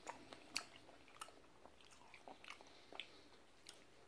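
Faint chewing of a Jack Link's Original meat stick: a scattering of soft, uneven mouth clicks.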